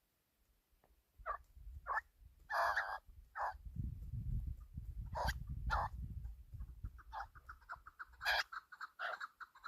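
Chukar partridge calling: short, separate clucking notes that quicken near the end into a rapid, continuous series. A low rumble sits underneath in the middle.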